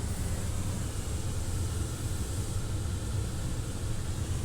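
Steady low rumble of a car running, heard from inside the cabin, with an even hiss over it.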